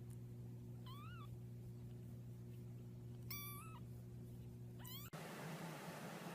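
A cat gives three short, high-pitched meows over a steady low hum. The first rises and falls, the second is held level, and the last rises and is cut off about five seconds in.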